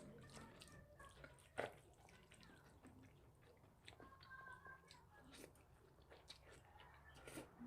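Faint, close-miked chewing and wet mouth clicks of someone eating, with one sharper click about one and a half seconds in and another at the very end.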